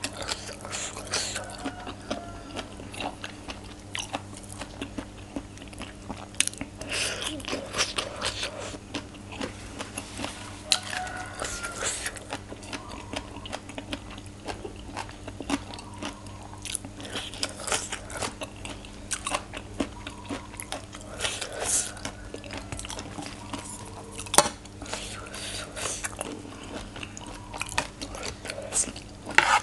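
Chewing and eating of spicy green papaya salad (som tam), with many short, crisp crunches scattered throughout. A steady low hum runs underneath.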